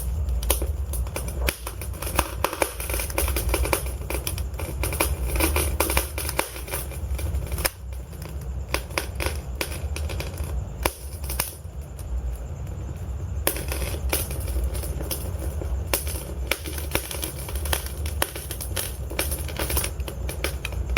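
Wood fire in a fireplace crackling and popping, with many sharp snaps coming irregularly over a steady low rumble of the burning logs. The snaps thin out for a couple of seconds a little past the middle.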